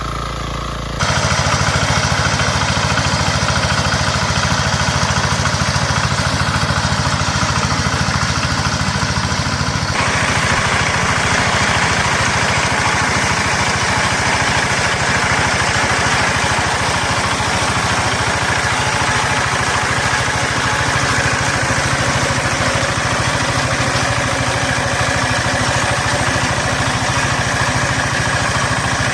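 Walking tractor engine running at a steady speed. About a second in it becomes much louder, and from about ten seconds in a harsher, higher clatter joins it.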